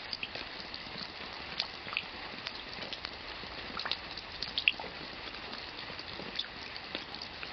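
Rain falling steadily, a constant hiss with many separate drops landing at irregular moments, the loudest a little before five seconds in.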